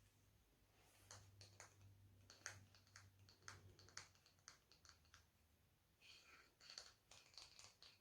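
Hair being handled and brushed close to the microphone: faint, irregular crackling clicks, with a short pause about five seconds in.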